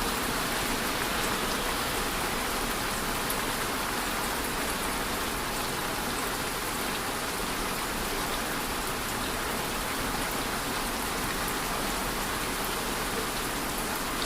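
Steady rainfall, a continuous even hiss of rain with scattered individual drop ticks.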